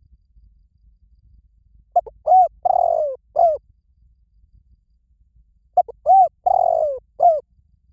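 Spotted dove cooing: two call phrases about four seconds apart, each a run of short arching coos with a longer, falling coo in the middle.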